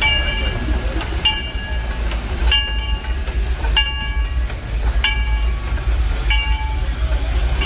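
Steam locomotive's bell ringing steadily, one stroke about every second and a quarter, each stroke ringing on and fading, over the low rumble of the train.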